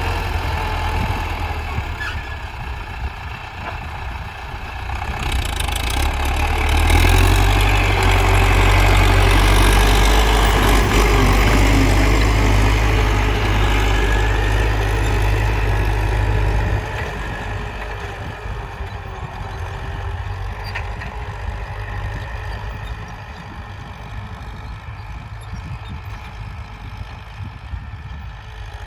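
Belarus MTZ tractor's diesel engine running steadily; it grows louder about six seconds in and drops back suddenly about seventeen seconds in.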